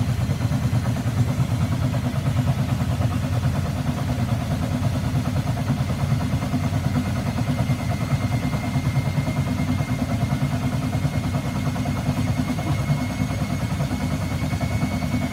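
Washing machine running: a steady, loud rumble of drum and motor, with a thin high motor whine that rises slightly in pitch in the second half.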